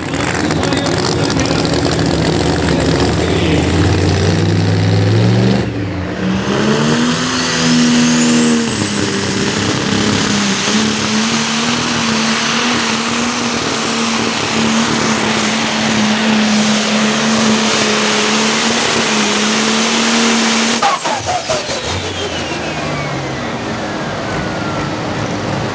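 Pro Stock pulling tractor's turbocharged diesel engine at full throttle during a pull, its pitch climbing over the first few seconds and then holding high and steady with a thin turbo whine above it. About five seconds before the end the engine is throttled back and the turbo whine falls away.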